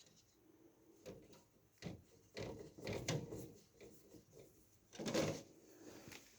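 Irregular knocks, clatter and scraping as computer parts and tools are handled, with the loudest rough scrape about five seconds in.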